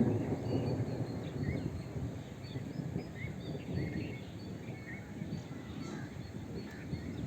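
Wind buffeting the microphone in an uneven low rumble, with small birds chirping in short calls throughout.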